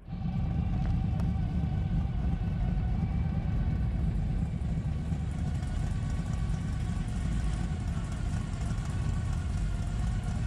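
Car engine idling steadily, deep and even, starting abruptly.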